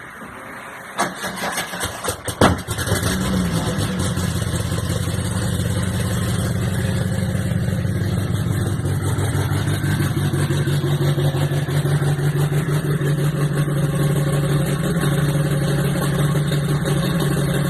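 Turbocharged VW AP 1.9 engine in a Parati, sitting unused for a few days, cranked on the starter for about a second and a half before catching with a loud burst, then settling into a steady idle.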